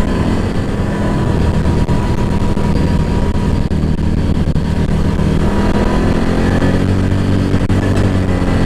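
Side-by-side off-road vehicle's engine running steadily under way on a gravel trail, with a thin steady whine above the engine note. The engine note rises a little past the middle.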